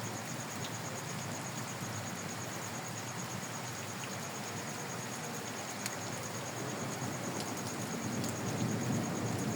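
Steady rain hiss with a high, evenly pulsing insect chirp running through it. A low rumble swells near the end.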